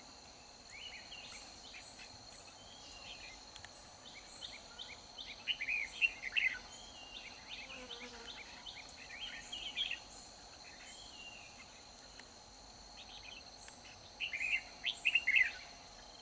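Red-whiskered bulbuls singing in short, rapid chirping phrases, the territorial fighting song used to lure rival birds to a trap, with the loudest bursts near the middle and again near the end. A steady high-pitched insect drone carries on underneath.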